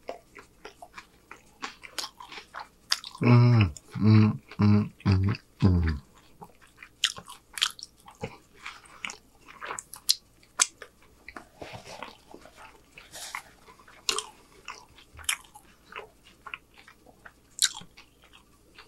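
Close-up wet chewing and lip-smacking of a man eating a chicken street taco, with sharp mouth clicks throughout. About three seconds in comes a run of five short, loud hums of enjoyment.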